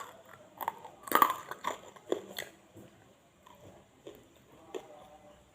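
Close-up crunching and chewing of crispy fried chicken: a run of crackling bites in the first two and a half seconds, loudest a little over a second in, then a few scattered softer crunches.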